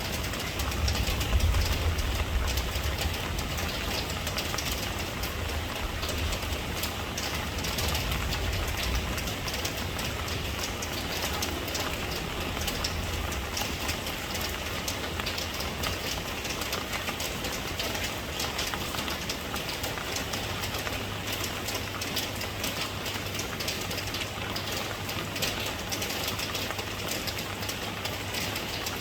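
Steady rain falling, a dense hiss speckled with the patter of individual drops, over a low rumble that is strongest in the first half and fades down later on.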